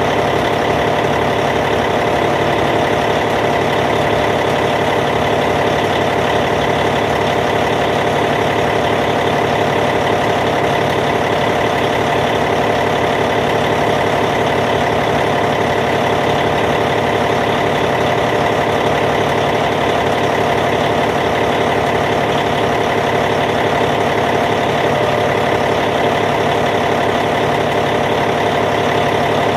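Caterpillar C15 inline-six diesel engine in a D8T bulldozer, idling steadily and evenly.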